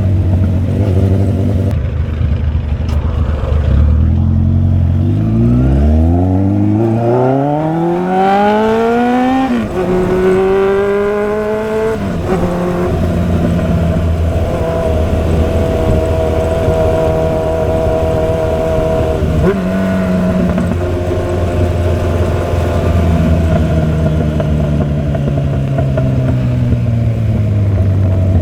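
Motorcycle engine under way: it revs up hard with its pitch climbing steeply, drops twice as it shifts up a gear, then holds a steady pitch while cruising. Near the end the revs fall away slowly as it slows down.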